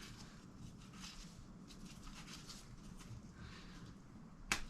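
Faint scattered clicks and rustles of hands working on a dirt bike, with one sharp click about four and a half seconds in.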